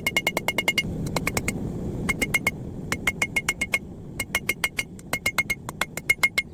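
Hand hammer striking steel on an anvil in quick runs of about six blows a second, each with a bright ring. For about a second near the start the blows lose their ring and sound duller.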